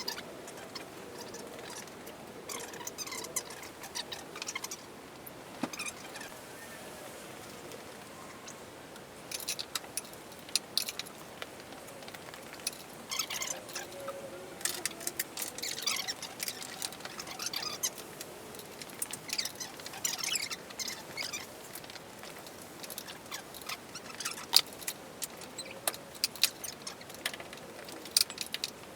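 Irregular metallic clinks, taps and rattles of hand tools working on metal fittings, coming in scattered short bursts that grow busier about a third of the way in.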